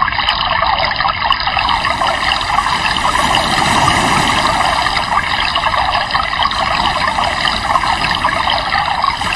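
River water rushing steadily, a constant even hiss with no breaks.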